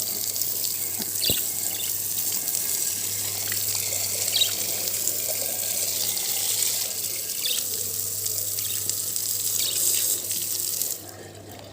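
Water running from a tap and splashing over a small clay water pot being rinsed under it; the flow stops near the end.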